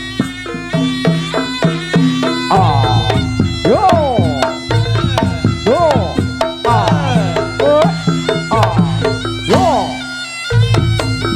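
Javanese reog gamelan music played live: a reed-shawm (slompret) melody bending up and down in pitch over hand drums, with steady gong and gong-chime tones underneath.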